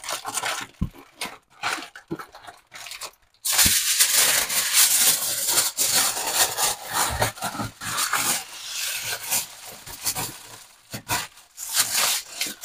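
Aluminium foil being crinkled and folded by hand into a packet around sucuk: scattered crackles, then a dense run of loud crinkling from about three seconds in, easing to occasional crackles near the end.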